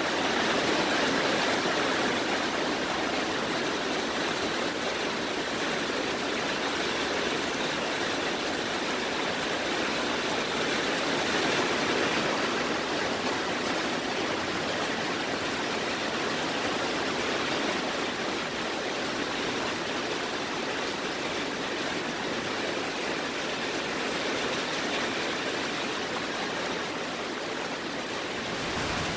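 Torrential thunderstorm rain pouring down steadily, an even hiss with no let-up.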